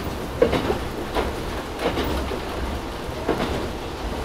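Tsugaru Railway stove train running, heard from inside the old passenger carriage: a steady low rumble with repeated knocks of the wheels over the rails.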